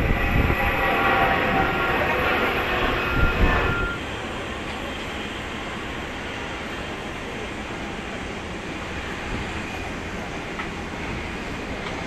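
Jet airliner engines running loud, with a steady whine over a dense rumble, then an abrupt cut about four seconds in to quieter, steady jet engine noise from a Boeing 787-10.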